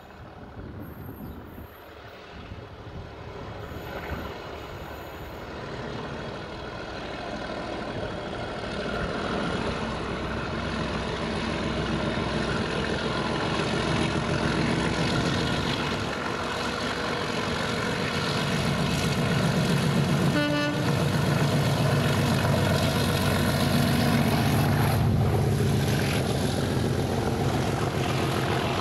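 Class 97 diesel locomotive engine running and growing steadily louder as it approaches, with a short horn toot about two-thirds of the way through.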